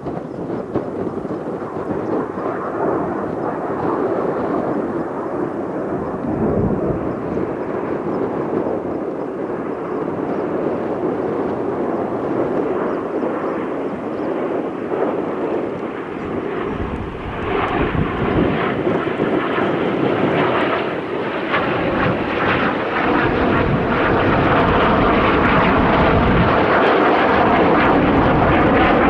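Kawasaki T-4 jet trainers' turbofan engines passing overhead: a steady rushing jet noise that grows louder and brighter past the middle.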